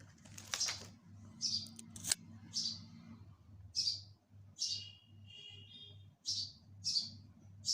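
A small bird chirping over and over: short, high chirps about one to two a second, over a faint steady low hum.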